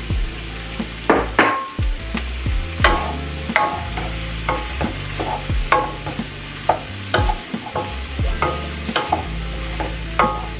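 Chicken sausage frying in a pan, stirred with a utensil that scrapes and clacks against the pan about once or twice a second over a steady sizzle.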